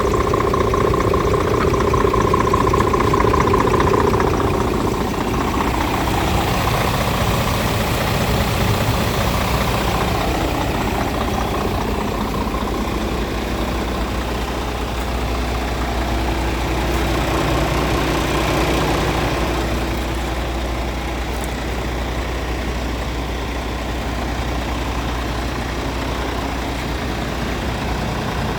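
Scania P410 dump truck's diesel engine idling steadily, with a higher whine over the hum for the first few seconds that then fades out.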